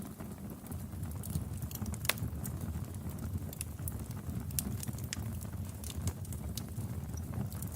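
Wood fire crackling in a fireplace: a steady low rumble of burning with scattered sharp pops and snaps, one louder pop about two seconds in.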